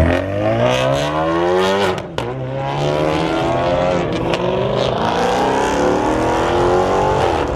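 Car engine accelerating hard: its pitch climbs for about two seconds, breaks at a gear change with a few sharp cracks, then climbs again, holds and falls away near the end.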